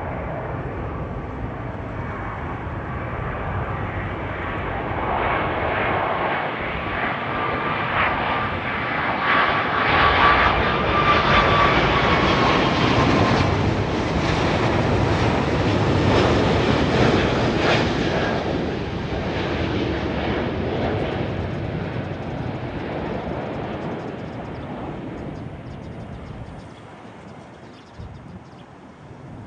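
Boeing 777 twin turbofan jet engines on a landing pass. The jet noise builds, is loudest through the middle with a steady fan whine, then fades away.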